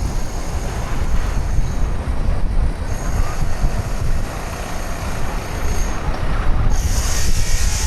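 Wind rumbling on the microphone of a camera riding a bicycle, with a faint high whine that breaks off twice. Near the end a hissing rush comes in.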